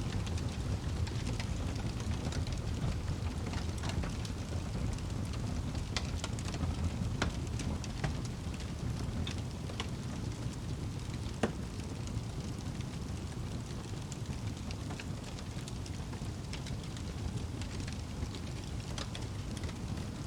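Wood fire burning in a fireplace: a steady low rumble of flames with scattered sharp crackles and pops, the loudest about eleven seconds in.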